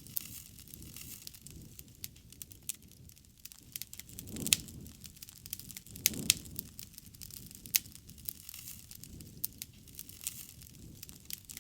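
Wood campfire crackling, with sharp pops at irregular intervals over a soft low rush that swells every couple of seconds.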